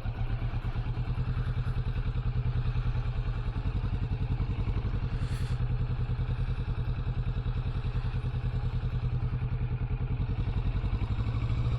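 Kawasaki Vulcan 650 motorcycle engine running steadily at an even, low pitch, with a fast regular pulse and no revving.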